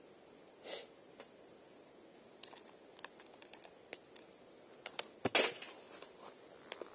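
Wood in a campfire crackling, with scattered sharp pops and a louder crackling burst about five seconds in.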